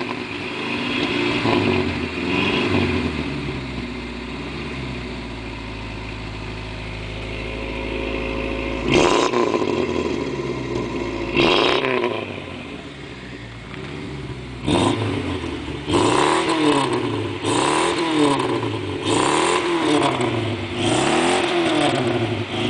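Car engine revved through a dual exhaust, its pitch rising and falling; after a steadier stretch it is blipped sharply twice, then revved in quick repeated blips about once a second near the end. The right-hand pipe still carries a silencer, so it adds little to the sound.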